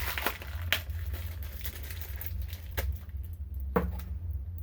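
Workbench handling noises: a rustle at the start, then a few separate sharp clicks as small parts are picked up and set down. A steady low hum runs underneath.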